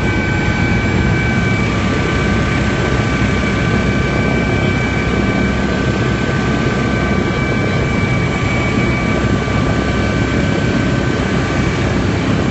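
Helicopter turbine engine and rotor running steadily: a constant loud din with several high, steady whining tones over it.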